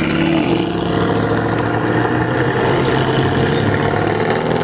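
A car engine running steadily, its pitch holding roughly level with slight wavering.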